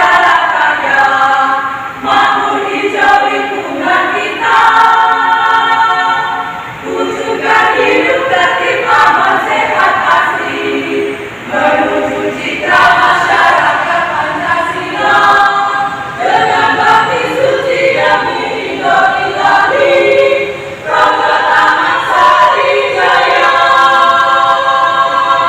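A women's choir singing in parts, holding chords in short phrases with brief breaks between them.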